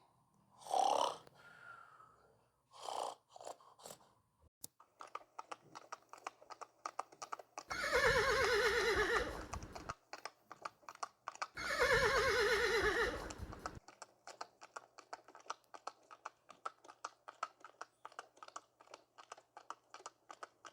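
Two long, quavering animal calls, each falling in pitch, over a fast, continuous ticking.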